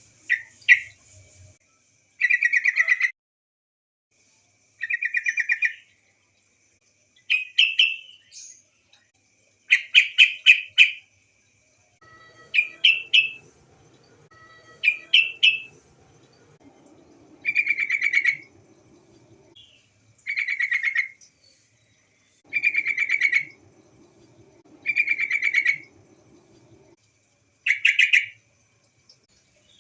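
Yellow-vented bulbul (trucukan) female call: short bursts of rapid chattering notes, one burst every two to three seconds.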